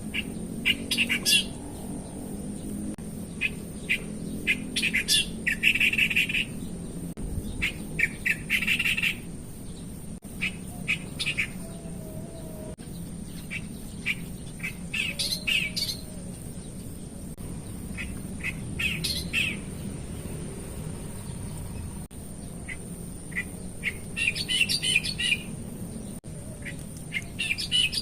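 Wild birds calling in short bursts of rapid chirps every few seconds, over a steady low background hum.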